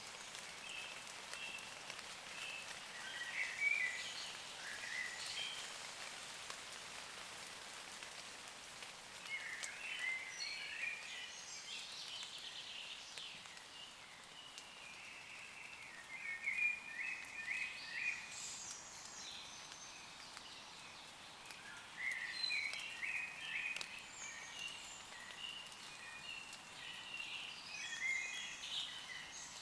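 Light rain pattering on leaves, with woodland birds singing in bouts of short, high chirping phrases over it.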